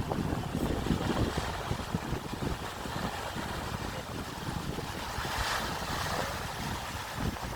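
Sea waves washing, with wind buffeting the microphone in gusts throughout; a louder swell of wash rises about five seconds in.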